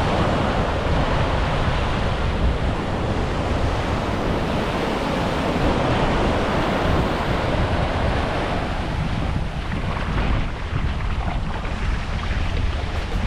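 Indian Ocean surf washing onto a beach, with wind buffeting the microphone.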